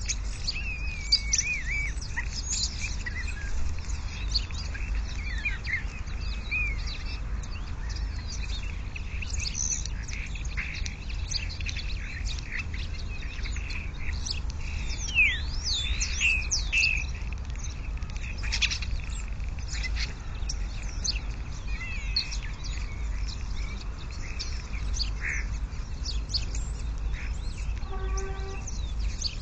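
Wild birds calling outdoors: scattered chirps and gliding whistles, with a run of sweeping calls about halfway through, over a steady low rumble.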